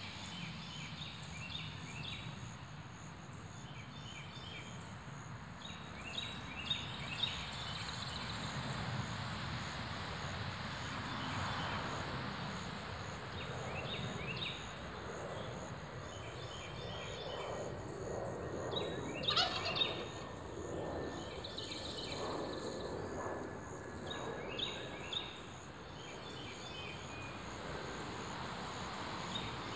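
Outdoor bird calls: short high chirps repeating every second or two over a steady high hum, with rolling lower calls in the middle and one loud call about two-thirds of the way through.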